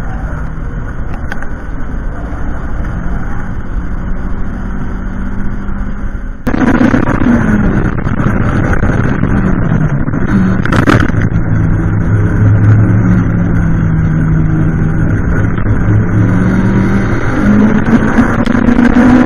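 Toyota MR-S's 2ZZ four-cylinder engine running hard on track, heard from inside the open-top cockpit with wind noise. About six and a half seconds in the sound suddenly gets louder; the engine note then dips, holds steady, and rises again near the end, with one brief sharp knock partway through.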